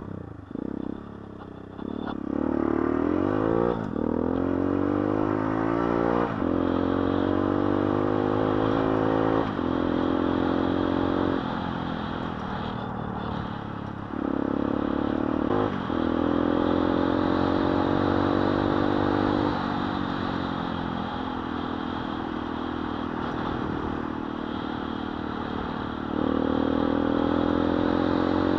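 Gilera SMT motorcycle with a swapped-in 125 cc engine accelerating through the gears: the engine note rises in pitch and drops back at each upshift. There is a steadier, quieter stretch of cruising past the middle, then it pulls again near the end.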